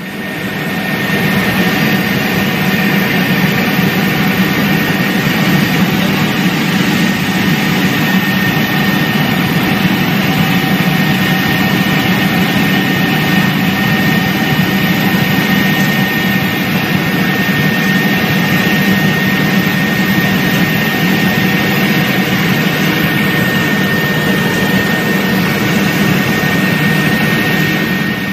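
Helicopter turbine engine and rotor running steadily, heard from inside the cabin: a dense rumble with a steady high whine over it.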